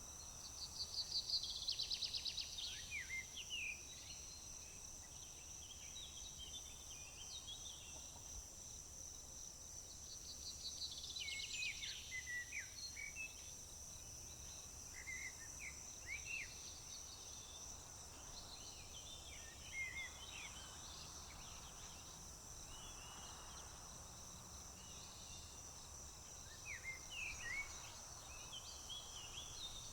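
Crickets trilling in one steady high-pitched drone under songbirds. A bird sings a fast run of notes falling in pitch about a second in and again about ten seconds in, with scattered short chirps and twitters after.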